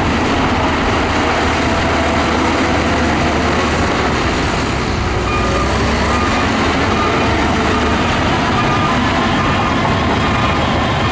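Heavy earthmoving machinery, a bulldozer's diesel engine, running steadily and loudly as it works sand.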